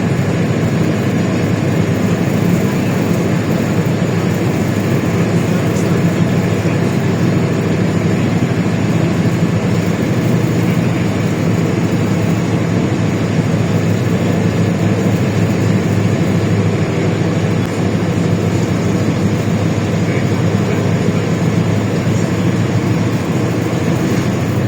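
Inside a LiAZ-677M city bus under way: its V8 petrol engine runs at a steady pace, with road and body noise filling the cabin.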